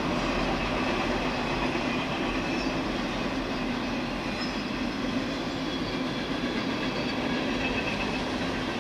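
A long freight train's cars rolling past: a steady rumble and clatter of wheels on the rails.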